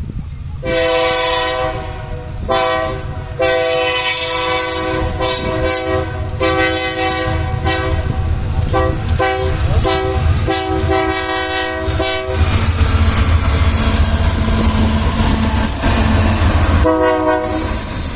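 Freight locomotive's multi-note air horn sounding a long series of blasts, some short and some held for a second or two. Then the locomotive's engine runs with a low drone for a few seconds before one more short blast near the end.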